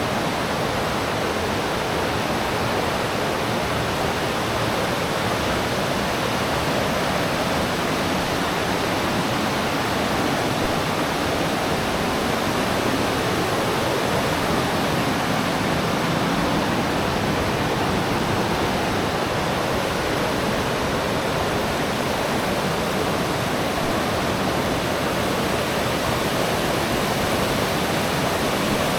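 River water rushing, a steady loud wash of flowing water.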